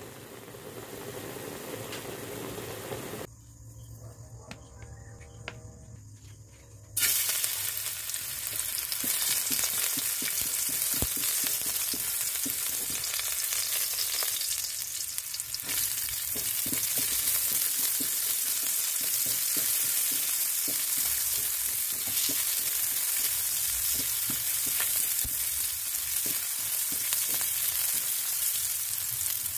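Chicken adobo bubbling in its sauce for the first few seconds. After a quieter stretch of a few seconds, chopped garlic and then onions sizzle steadily in hot oil in a metal wok, with small clicks and scrapes from a spatula stirring them.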